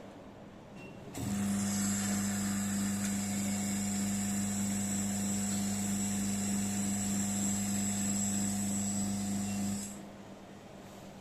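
Small electric oil pump of a viscosity tester switching on about a second in, running with a steady hum and hiss, then cutting off abruptly near the end. It is drawing the petroleum ether rinse out of the test cell.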